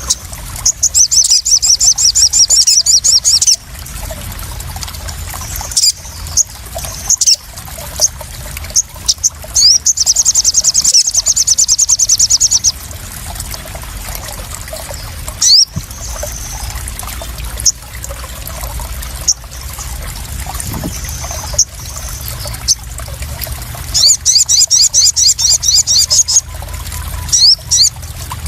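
Crimson sunbird (sogon) song: three bursts of fast, high trills of about two to three seconds each, near the start, about ten seconds in and near the end, with scattered short chirps between them, over steady splashing and trickling water.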